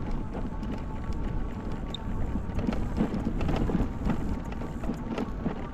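Wind rumbling on the microphone over the noise of an e-bike rolling along a rough dirt trail, with scattered small clicks and rattles.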